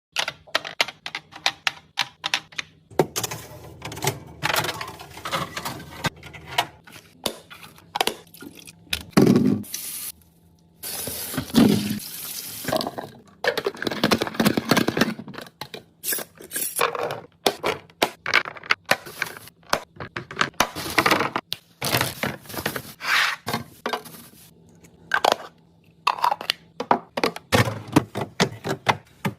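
Kitchen restocking sounds: many quick clicks and knocks of containers, lids and packaging being handled and set down. Several longer spells of liquid being poured or run into containers are mixed in.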